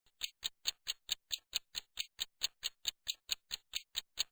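Clock-like ticking sound effect, about four or five sharp ticks a second, evenly spaced. It is a countdown timer marking the pause in which the learner is to say the sentence aloud.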